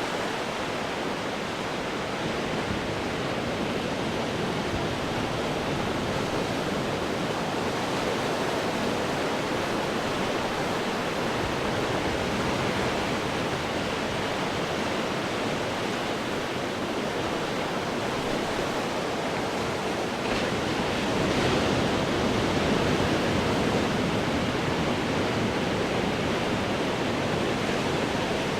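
Ocean waves breaking on rocks: a continuous rushing wash of surf that swells louder about two-thirds of the way through as a bigger wave comes in.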